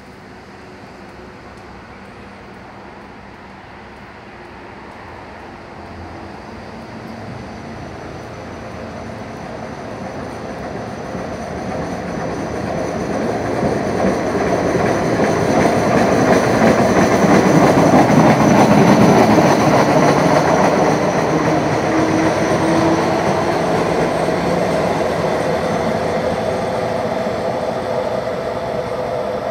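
Regional passenger train passing close by along the platform: its running noise on the rails builds slowly, is loudest about eighteen seconds in, then fades as the train moves away.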